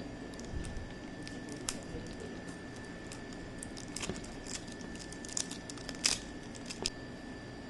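Crinkling and sharp little clicks of washi tape packaging being handled and unwrapped, louder around the middle and near the end.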